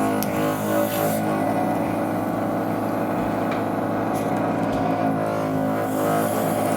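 Heated suction separator machine running with a steady droning hum that holds one pitch throughout, with a couple of faint ticks near the start.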